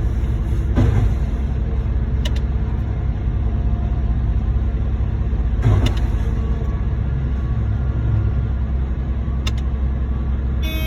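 Heavy diesel truck engine running steadily at a constant speed, with a few short knocks and clanks.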